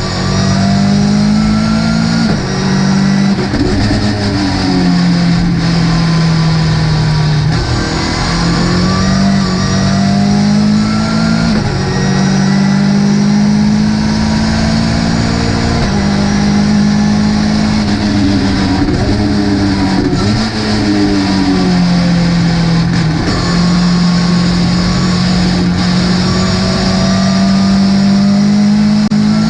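Ginetta GT5 race car's engine at racing speed, its pitch climbing under acceleration and dropping back at gear changes and lifts, over and over through the lap.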